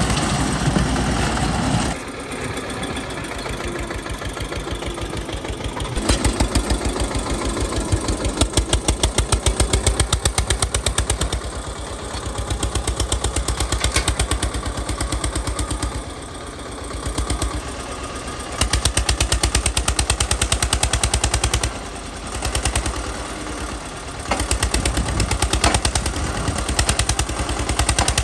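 Eicher 242 tractor's two-cylinder air-cooled diesel engine running with a rapid, even beat. Its speed and load rise and fall several times, getting louder and then dropping back.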